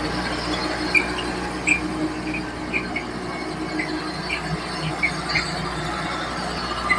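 Komatsu D31P crawler dozer's diesel engine running steadily, with short high squeaks repeating irregularly, roughly once a second, during a power test.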